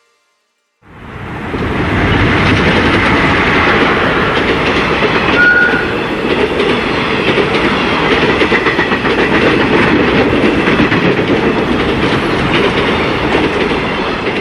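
A train running steadily, its wheels clattering over the rail joints, starting suddenly about a second in. A short high tone sounds briefly about five and a half seconds in.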